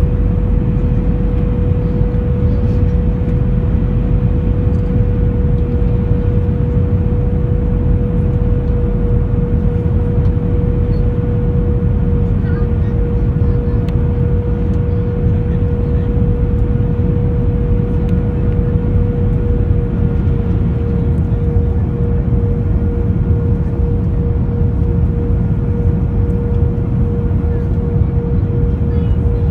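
Cabin noise inside an Airbus A321 taxiing after landing: a steady low rumble from the engines and airflow, with a steady hum that begins to waver about two-thirds of the way through.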